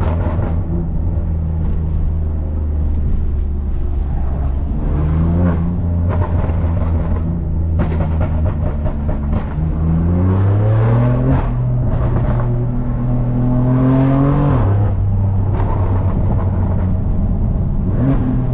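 BMW S55 twin-turbo inline-six of a 2018 F80 M3 Competition, running through catless downpipes and an axle-back exhaust with its valves open. It drones at low revs, rises in pitch twice as the car accelerates, then drops sharply about three-quarters of the way through.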